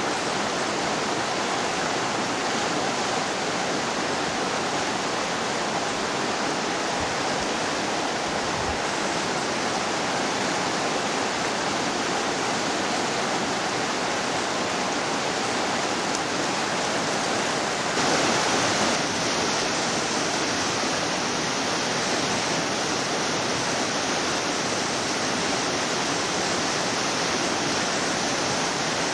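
Whitewater river rapids rushing steadily, with a brief louder surge about two-thirds of the way through.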